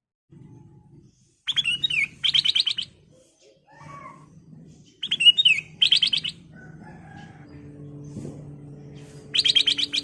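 Black-crested bulbul (kutilang emas) singing: three loud phrases, each a quick slurred note followed by a rapid run of about eight repeated notes, with softer, lower calls in between. A low steady hum lies underneath.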